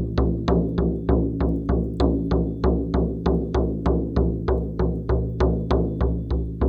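Shaman's frame drum beaten in a steady, even rhythm of about three strikes a second, each beat ringing with a deep resonance.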